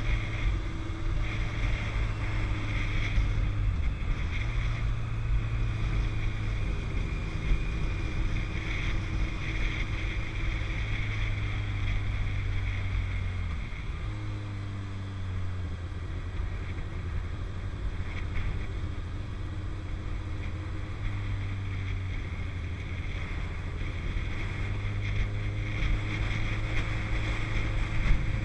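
Motorcycle engine running at road speed under wind noise on the microphone. The engine note dips briefly and picks up again about four seconds in and about fourteen seconds in.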